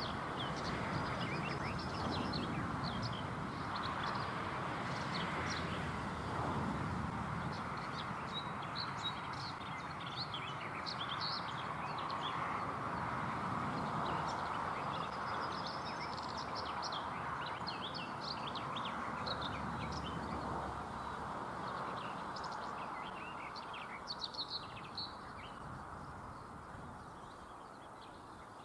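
Songbirds chirping and singing over a steady background rumble and hiss that fades toward the end.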